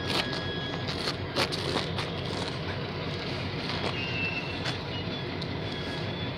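Freight train of covered hopper cars rolling past close by: steady wheel-on-rail noise with scattered clicks and knocks from the wheels and couplers.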